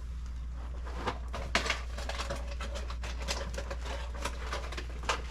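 Rustling and light knocking of cereal boxes and food packages being handled and shifted on pantry shelves: irregular crinkles and taps over a steady low hum.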